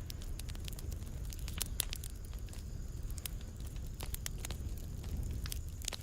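Fireplace fire crackling, with irregular sharp pops and snaps, several a second, over a steady low rumble of the flames.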